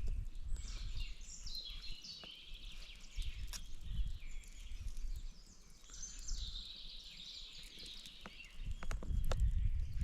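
Songbirds singing in high, descending trills, twice, over a low rumble and a few short clicks or knocks.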